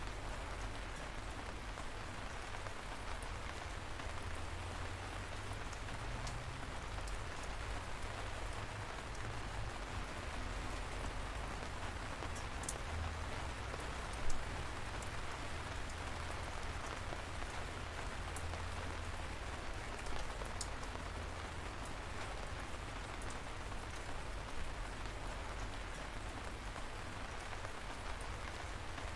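Light rain falling steadily, an even hiss with scattered sharper drop taps; one louder drip about halfway through.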